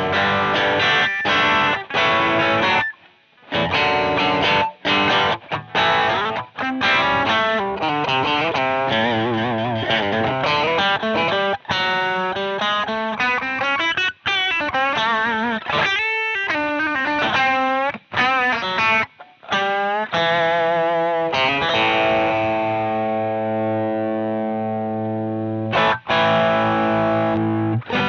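Distorted electric guitar through a Jeds Peds Onosecond high-gain overdrive pedal. It opens with choppy riffing broken by short stops, moves into lead lines with bends and vibrato, and near the end holds a chord ringing out before a brief stop.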